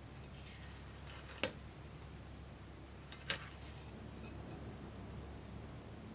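Light clicks and clinks of hard objects, with two sharp knocks about two seconds apart, over a faint low hum.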